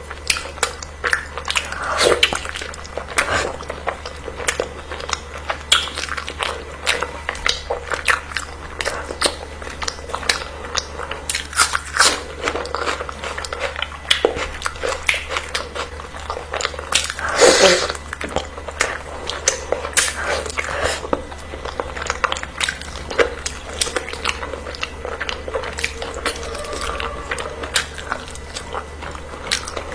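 A person eating close to the microphone: dense, irregular crunching and biting with chewing mouth sounds, and one longer, louder burst a little past halfway. A steady low hum runs underneath.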